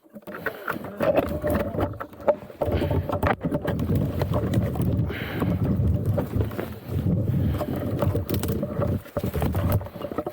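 Enduro motorcycle running while riding, with a rough, uneven rumble and scattered knocks.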